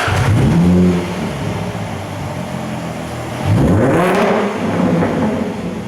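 Range Rover Sport 3-litre engine through a tuned aftermarket exhaust, dropping back to idle from a rev, then given a quick throttle blip about halfway that rises and falls within a second before settling to idle.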